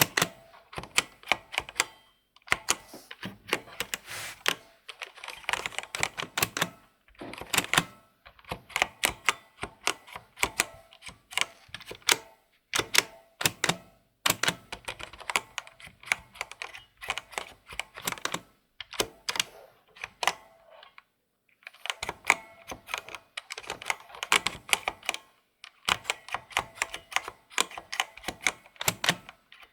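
Computer keyboard being typed on: quick runs of key clicks, broken by short pauses every few seconds.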